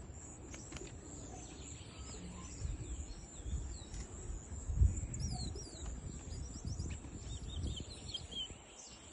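Towa-towa finch singing short phrases of quick sliding whistled notes, about halfway through and again near the end, over a low rumble of wind on the microphone with a single louder thump shortly before halfway.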